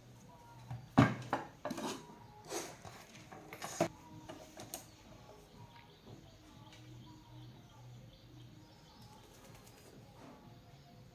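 A handful of sharp clicks and knocks in the first five seconds, the loudest about a second in, then only a faint low background.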